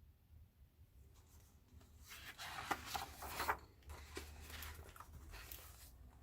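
Faint rustling of paper, a picture book's pages being handled and turned, in two stretches of a second or so each, the first a little after the start and the second toward the end.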